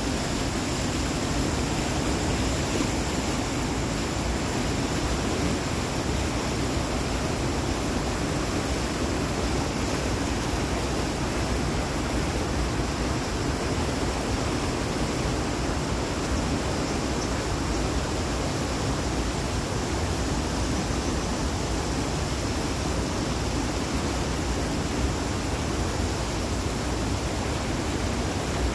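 Waterfall at New Athos, a man-made cascade on the Psyrtskha river, pouring steadily: a dense, even rush of falling water with no breaks.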